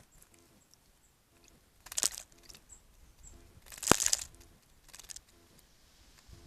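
Small songbirds bathing in a bird bath, splashing and fluttering their wings in the water in short rough bursts, the loudest about two and four seconds in, with a smaller one near the end.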